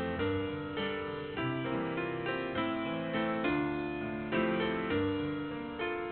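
Piano music, chords and melody notes struck every half second or so, each ringing and fading away.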